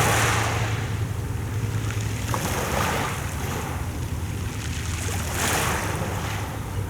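Sea waves washing in, surging about every three seconds, over a steady low rumble.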